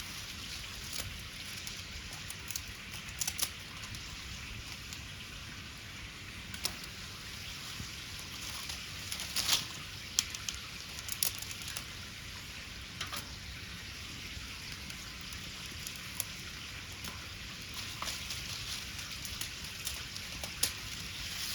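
Wood fire crackling, with irregular sharp pops over a steady hiss; the loudest pops come about halfway through.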